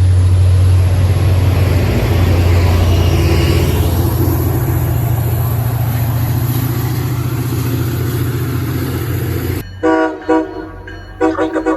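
Train running by with a loud, steady low rumble. It cuts off suddenly near the end, followed by a few short horn blasts.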